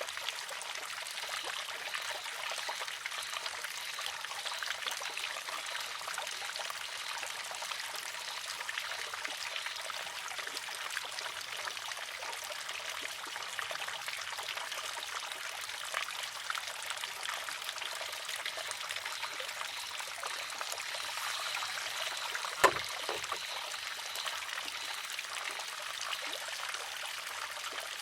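Water trickling steadily into a wooden shishi-odoshi (deer scarer), with one sharp clack about 23 seconds in as the filled arm tips, empties and strikes its rock.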